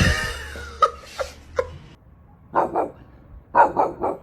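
Dog barking in short, sharp barks: two about two and a half seconds in, then three quick ones a second later, after a sudden noisy sound at the start.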